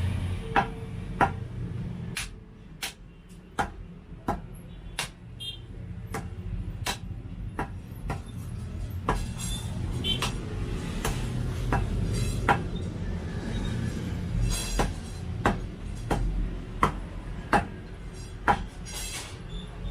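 A cleaver chopping meat into pieces on a board: steady, sharp chops, roughly one every two-thirds of a second.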